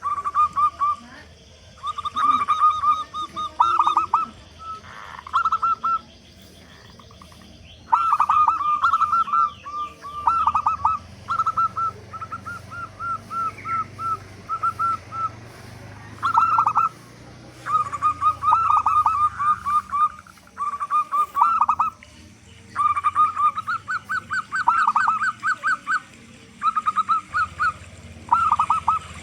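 Zebra dove (perkutut) cooing: repeated phrases of quick, rolling coo notes, each phrase a second or two long, with short pauses between them.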